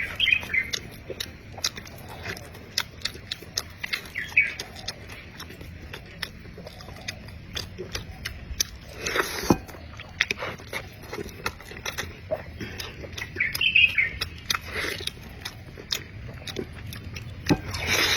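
Wet chewing and lip-smacking of someone eating meat, many sharp mouth clicks, with a few brief squeaky sounds and a louder wet smack about nine seconds in.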